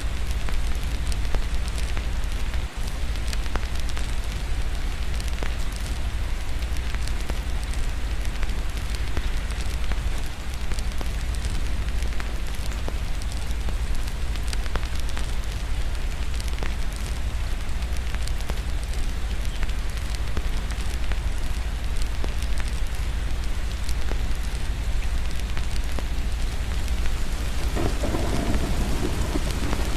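Steady rain with scattered small crackles from a fireplace, and a rumble of thunder building near the end.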